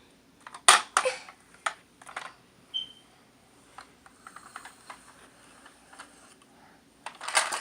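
Plastic toy handling: a few sharp clicks and knocks in the first couple of seconds, then faint scattered taps, and a louder clatter starting near the end.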